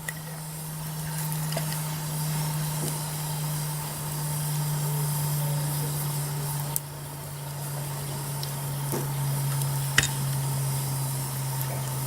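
Wood campfire hissing, with a few sharp pops and cracks, the loudest near the middle and about ten seconds in. Under it runs a steady low hum that slowly drops in pitch.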